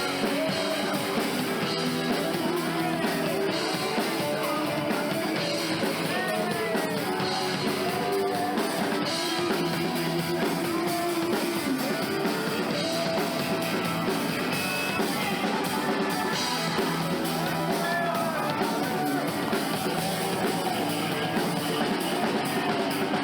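Live rock band playing a song: drum kit, electric guitars and bass, with keys.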